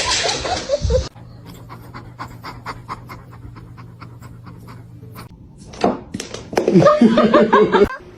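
A pet animal panting fast and evenly, about five breaths a second, followed near the end by louder vocal sounds that waver in pitch.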